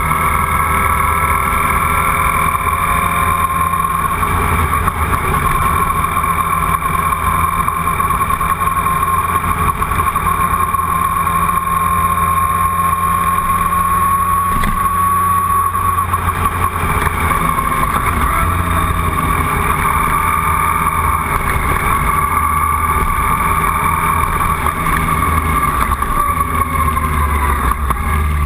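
Motorcycle engine running at a steady cruise, heard from on the bike with wind and road noise and a steady whine; near the end its pitch drops as the bike slows.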